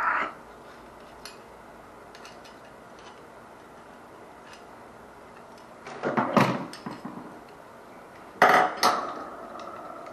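Metal clattering while working on a water heater's wiring: a clatter about six seconds in and a second, louder one near the end that leaves a brief ringing.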